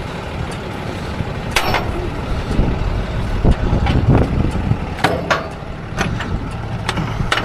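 Tow truck engine running steadily, with a few sharp knocks.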